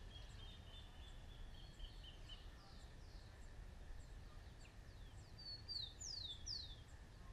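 Faint outdoor ambience: a low steady background rumble with birds calling now and then in short downward-sweeping whistles, the clearest pair about six seconds in.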